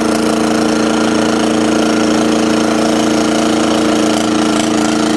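Kubota diesel engine in a Simplicity 7117 garden tractor running steadily at an even speed, with no exhaust system built for it yet.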